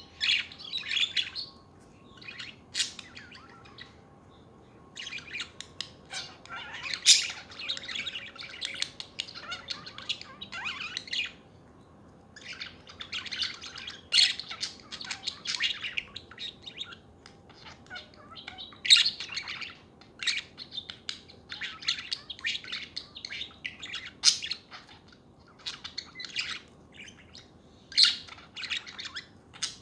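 Budgerigars chattering: a dense stream of warbling chirps and sharp squeaks, broken by two short pauses.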